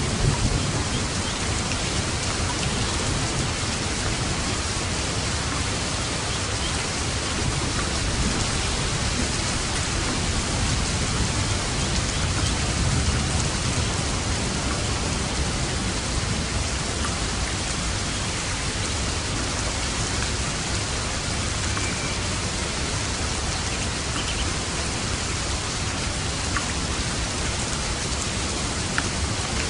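Steady, even rain, with a few faint drop ticks.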